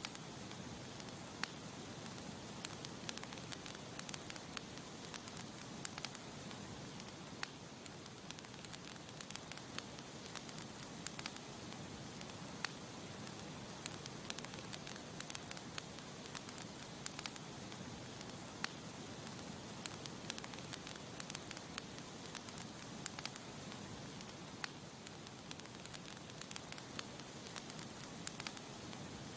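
Campfire burning with a steady hiss and frequent sharp, irregular crackles and pops from the wood.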